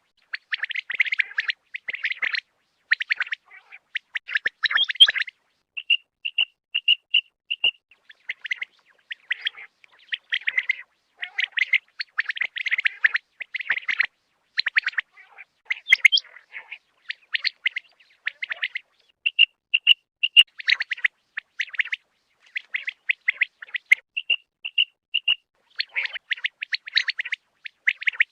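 Quail calling: fast, buzzy chattering phrases, broken now and then by short runs of four or five clear, evenly spaced piping notes.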